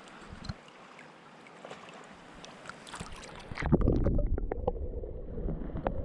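Faint steady rush of creek water with a few small ticks. A little over halfway in it gives way suddenly to a louder low rumbling with knocks, like wind or handling on the microphone.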